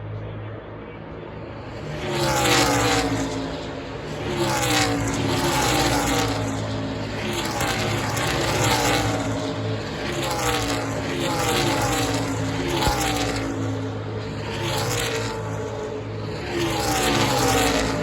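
NASCAR Xfinity V8 stock cars passing at racing speed one after another, each engine note falling in pitch as it goes by. The passes come about every two seconds, starting about two seconds in, over a lower steady rumble.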